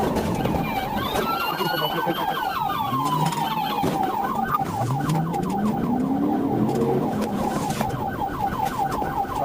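Police car sirens: one in a fast warbling yelp throughout, and another wailing, sliding up and then down in pitch during the first half.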